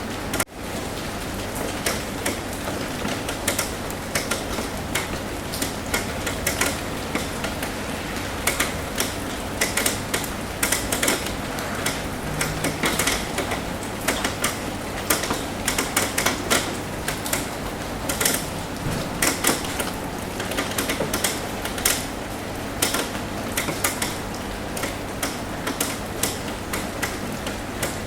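Rain drumming on a roof: a steady hiss of rainfall with many irregular, sharp drop taps on top. There is a brief dropout in the sound just after the start.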